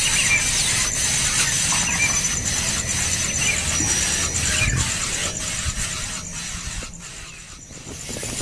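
Nestling birds begging at the nest with shrill, rasping squeals, over a steady high pulsing tone. It dips briefly near the end.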